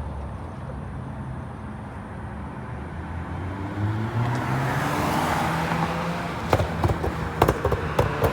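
The 3.5-litre V6 of a 9th-generation Honda Accord runs through an aftermarket J-pipe, two Magnaflow resonators and a custom Magnaflow exhaust. It idles steadily, then rises to a higher, louder engine speed about four seconds in and holds there. Several sharp clicks come in the last two seconds.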